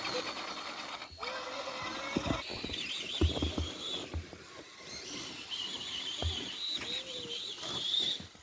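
Whine of a radio-controlled crawler truck's electric motor and gears, rising and falling with the throttle, mixed with scattered knocks and a few low thuds from the truck working over the snow.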